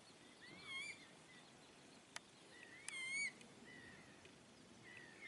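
Short, wavering whistled bird calls, one about a second in and a louder one about three seconds in, with fainter ones after. A single sharp click about two seconds in.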